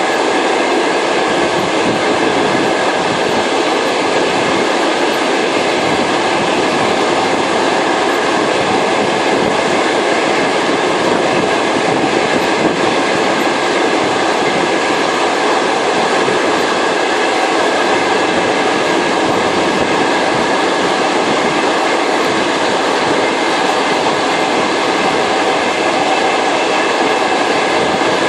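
Trans-Siberian passenger train running at speed: the steady, unbroken running noise of wheels on rails, heard from inside the carriage.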